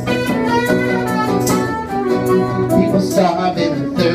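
Live band playing an instrumental break in B minor: a bending lead melody line over a steady, rhythmic acoustic guitar strum.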